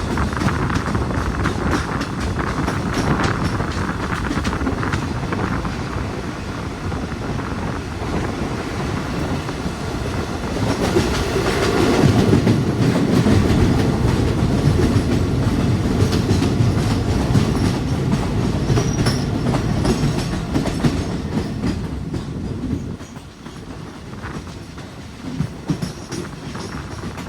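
A train running on the rails, the wheels clattering over the track. The running noise swells louder about halfway through and falls away sharply a few seconds before the end, where a few separate knocks are heard.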